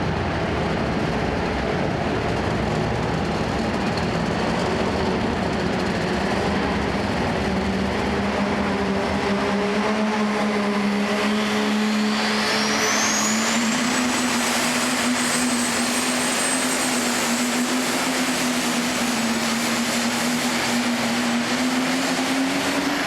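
Super Stock pulling tractor's turbocharged engine running hard at full power through a pull. A high turbo whine climbs steeply about halfway through and then holds, while the engine note rises slightly near the end.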